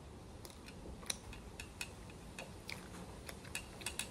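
Crunching of a crisp fried snack being chewed: a string of sharp, irregular clicks, about a dozen.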